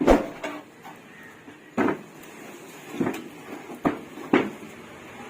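About five sharp knocks and clatters of wood being handled, the first the loudest, from a plywood bird breeding box being moved and measured.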